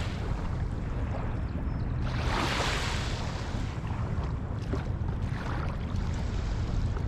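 Outdoor waterside wind and water noise: a steady low rumble under a hiss, with a louder rush about two to three seconds in.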